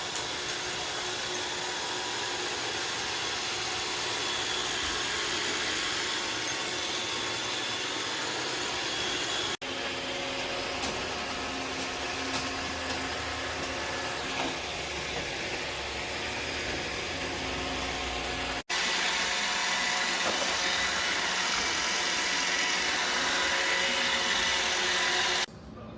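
iRobot Roomba Combo robot vacuum running, a steady whirring hum with thin high tones. It comes in three stretches joined by abrupt cuts, and the hum is a little louder in the last.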